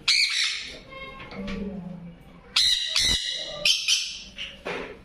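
Parrots squawking: one harsh call at the start, then a quick run of three more calls about two and a half seconds in.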